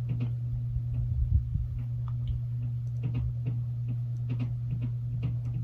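Steady low electrical hum, with scattered light clicks and taps from handling the phone.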